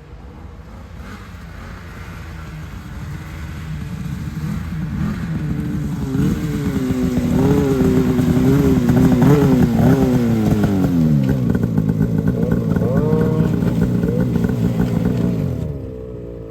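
Snowmobile engine coming closer and growing louder, its pitch wavering with the throttle, then falling about eleven seconds in as it slows. It runs steadily for a few seconds and drops off near the end.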